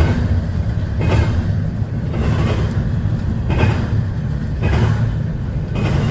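CSX freight train passing at a crossing, heard from inside a truck cab: a steady low rumble with a regular knock about every 1.2 seconds.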